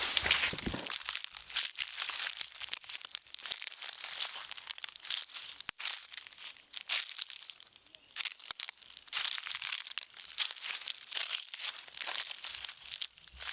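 Irregular rustling and crackling: many quick crinkling clicks at an uneven pace, as when dry material is handled or crushed.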